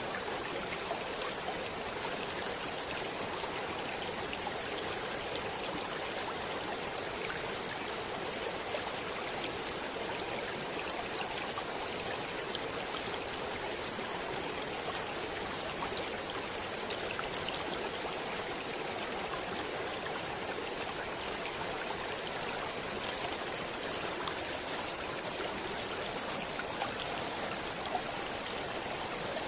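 Stream water flowing steadily, an even rushing with small splashes scattered through it.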